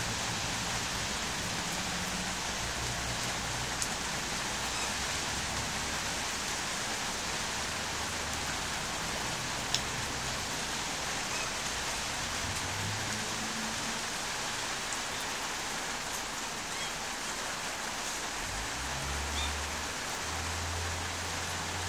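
Steady rain falling on a concrete path and its puddles, with a few single drop ticks and a faint low rumble now and then.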